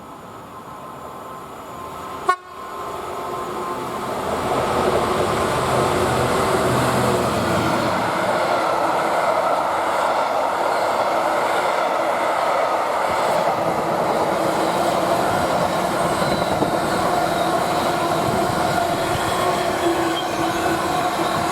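A train passing on the line: after a click about two seconds in, it grows louder over a couple of seconds, then runs past steadily with the continuous rumble and rattle of wheels on rails.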